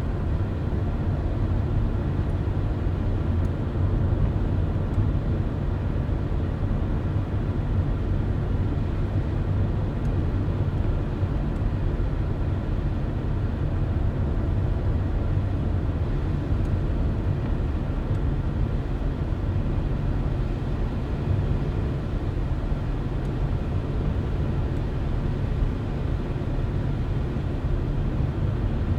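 A car driving at a steady speed: a constant low rumble of engine and tyres on the road.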